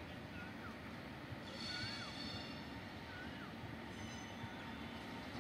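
Low, steady rumble of a passenger train approaching in the distance. Over it, short rising-and-falling chirps repeat about every second and a half, and brief high-pitched squeals come and go.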